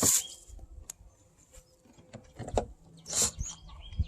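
Scattered clicks and short rustles of parts and tools being handled, the loudest a sharp click right at the start, with a few short bird chirps in the background.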